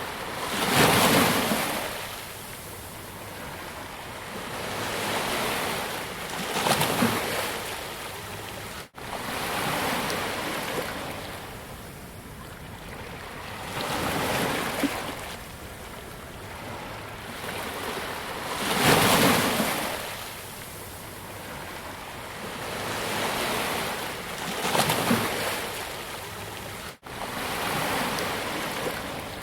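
Ocean waves breaking on a beach, each surge swelling and washing out every four to six seconds. The sound cuts out for an instant twice.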